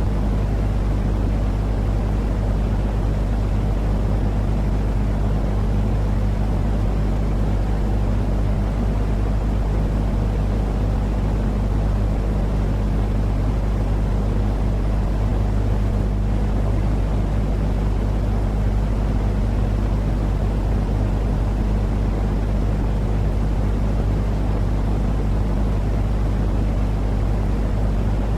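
Steady low rumbling noise with a constant deep hum, unchanging throughout: a continuous soothing noise track for calming crying, colicky babies and getting them to sleep.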